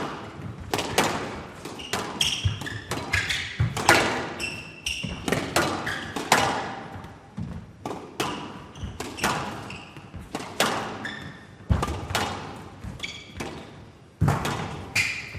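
Squash rally: the ball is struck by rackets and hits the court walls in a steady string of sharp smacks, about one every half second to second, with short shoe squeaks on the court floor between them.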